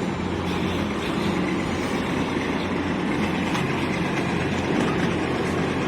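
An engine running steadily with a constant low hum and even noise, without change in level.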